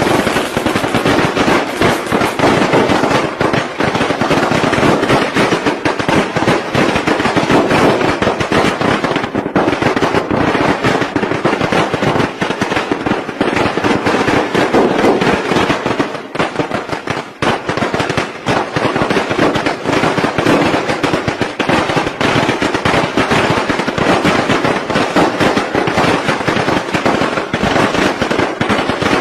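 Long strings of firecrackers going off in a dense, unbroken crackle of rapid bangs, the traditional Vietnamese Tết firecracker barrage, easing briefly about halfway through before picking up again.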